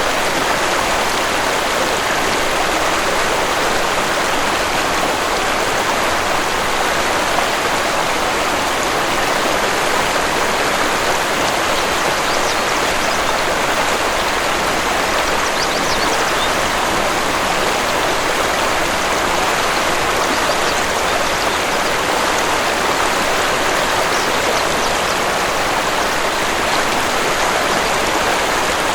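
Waterfall and flowing stream water rushing in a steady, even wash of noise with no breaks.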